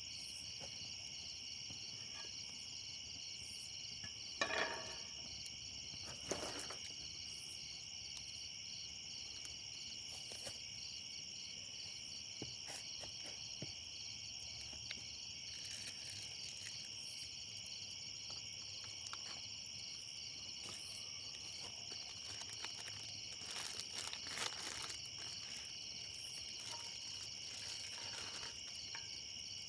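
A steady chorus of insects calling: a continuous high, finely pulsing drone. A few short knocks and crackles stand out, the loudest about four and a half seconds in.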